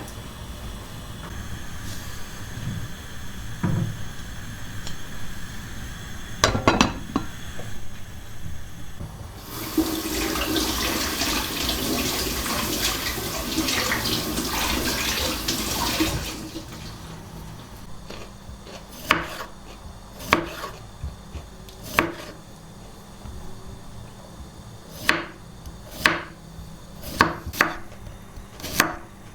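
A tap runs into a sink for about seven seconds, with a few knocks of things being handled before it. Then about a dozen sharp knocks, roughly a second apart.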